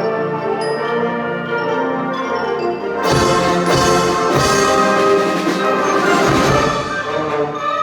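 Concert wind band playing, brass to the fore. About three seconds in the full band comes in louder, with percussion.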